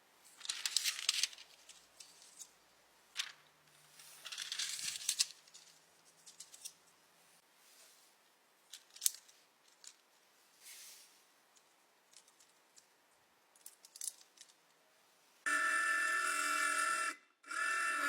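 Close-up handling sounds of makeup-repair work: two short scratchy scraping passes and scattered light clicks and taps, then a steady pitched buzz that runs for under two seconds, stops, and starts again briefly near the end.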